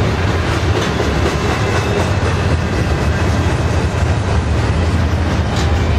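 Double-stack container well cars rolling past on the rails with a steady low rumble of wheels and running gear, broken by a few light clicks.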